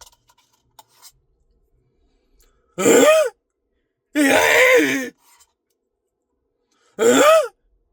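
A man's voice making three short, wordless vocal noises whose pitch swoops up and down, with faint ticks in the pauses between them.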